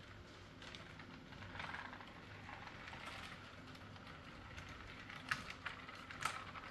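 HO-scale model train running on its track: a faint low hum with scattered light clicking, and a few sharper clicks near the end.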